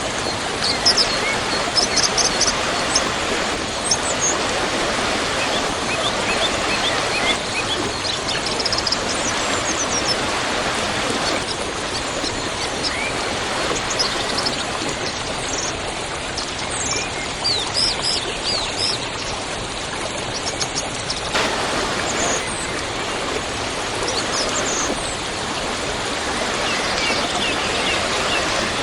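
Waterfall rushing steadily, with small birds chirping faintly over the water noise. The water sound shifts abruptly about a third and two thirds of the way through.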